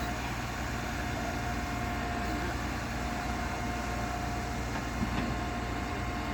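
Flatbed recovery truck machinery running steadily during winching: a low engine drone with a steady whine above it.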